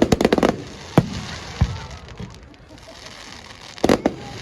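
Fireworks going off: a quick string of crackling bangs at the start, single bangs about a second in and again half a second later, and a close pair of bangs near the end.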